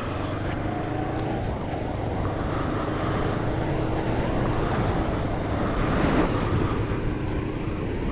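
Kawasaki GPZ500 parallel-twin engine running steadily under way, pitch creeping up slightly as the bike gathers speed, with wind and road noise. A louder rush of noise comes about six seconds in.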